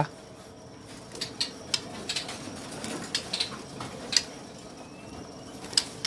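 Caged songbirds in a bird shop: scattered short chirps and clicks over a low murmur of other birds.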